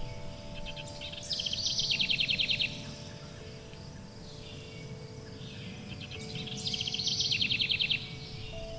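A songbird sings the same rapid trilled phrase twice, a few seconds apart, over long ringing chime tones and a low steady background hum.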